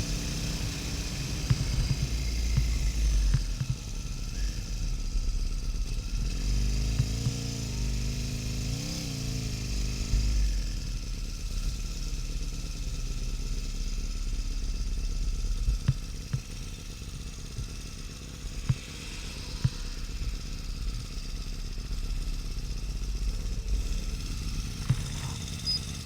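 The 1200 cc air-cooled V-twin of a Harley-Davidson XL1200N Sportster running at low speed, with wind noise on a helmet- or bike-mounted action camera. The engine note rises and falls a few times about a third of the way in, and there are a few small knocks later on.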